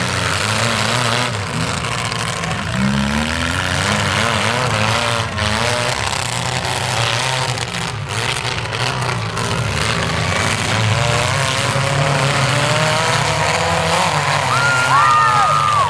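Engines of several compact demolition-derby cars revving, their pitch rising and falling as the cars accelerate and back off across the dirt. A brief high squeal comes near the end.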